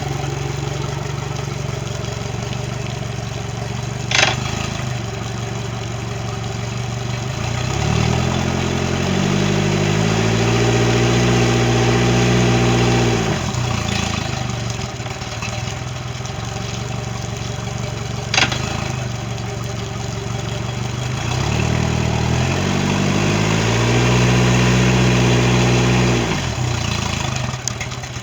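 90 hp Mercury outboard motor running at idle and revved twice, each time rising to a higher steady speed for a few seconds before dropping back to idle. The engine runs after a no-start fault. Two short sharp clicks come about four seconds and eighteen seconds in.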